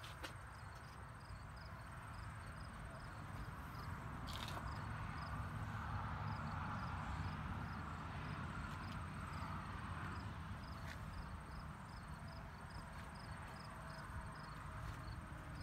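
1957 Chrysler 392 Hemi V8 idling steadily, a little louder through the middle. A faint high tick repeats about twice a second over the engine.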